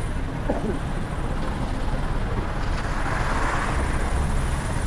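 Steady rumble and road noise of a vehicle on the move, with a swell of noise about three seconds in.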